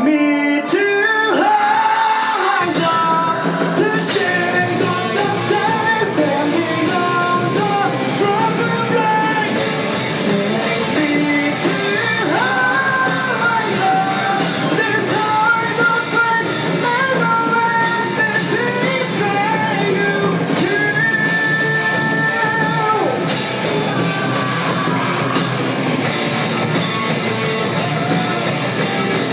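Live rock band playing: drums and guitars under a sustained, wavering melodic lead line, held at a steady loudness.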